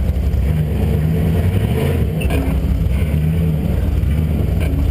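Straight-piped 5.9-litre (360) V8 of a 1999 Dodge Durango running at low revs, a deep exhaust note whose pitch wavers slightly up and down.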